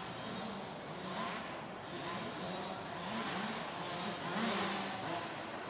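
Several motocross bikes racing around an arena track, their engines revving up and down in pitch again and again.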